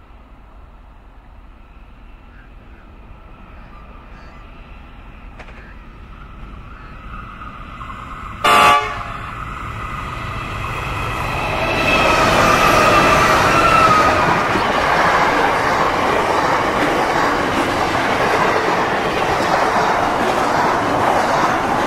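Container freight train hauled by two NR-class GE Cv40-9i diesel-electric locomotives, growing louder as it approaches. The locomotive horn gives one short blast about eight seconds in. The locomotives pass close by about twelve seconds in, then the container wagons roll past with a steady rumble.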